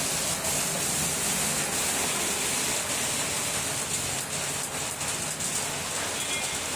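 Steady hiss of rain and of floodwater running through a waterlogged street.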